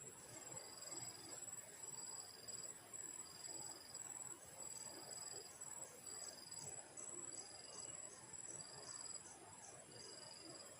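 Forest insects calling: one keeps up a high, fast-pulsing buzz while another repeats short trills about once a second.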